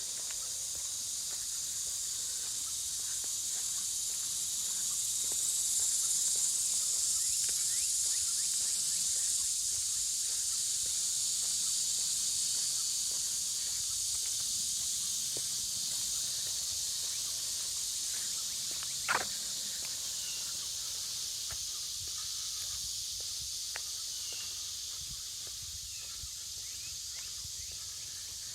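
Steady high-pitched drone of a summer insect chorus, swelling slightly a few seconds in. A single sharp click comes about two-thirds through, and a few faint short chirps follow near the end.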